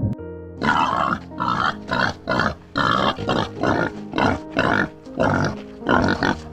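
A farm animal calling in a quick run of short, harsh calls, about two a second, over background music with steady held tones.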